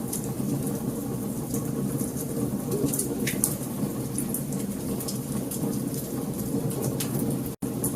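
Wood fire burning in a fireplace: a steady low rumble with frequent sharp crackles and pops from the burning logs. The sound cuts out for an instant near the end.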